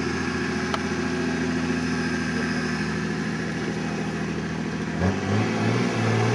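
Off-road 4x4 engine running steadily at low revs, then revving up about five seconds in, its pitch climbing as the vehicle takes on the obstacle.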